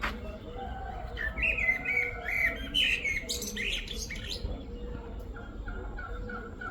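Parrots chirping and calling: a run of loud chirps for about three seconds, then softer short notes repeated about twice a second.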